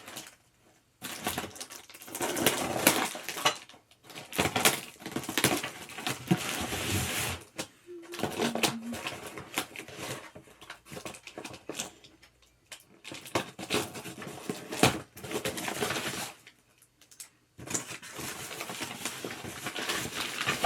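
Unpacking noises from gaming chair parts and packaging being handled: rustling with many small clicks and clinks. They come in several bursts separated by pauses of about a second.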